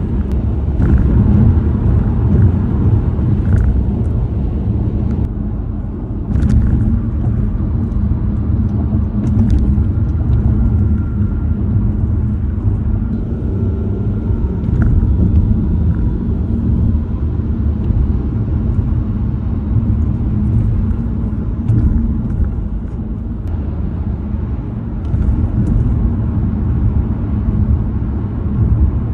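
Tyre and road noise heard inside a moving car: a steady low rumble of tyres on pavement, with a few short sharp knocks scattered through it.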